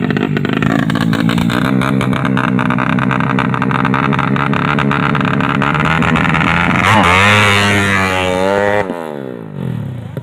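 A 130cc drag-bike motorcycle engine running fast and rough with rapid firing pulses while it is being tuned. About seven seconds in it revs up higher and holds, then is cut off just before the end and its pitch falls steadily as it winds down to a stop.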